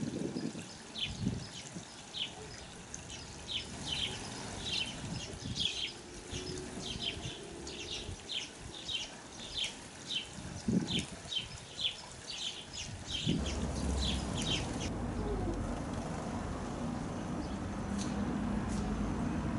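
House sparrow chirping repeatedly, about two short chirps a second, stopping about fifteen seconds in. A steadier low background rumble comes in past the middle.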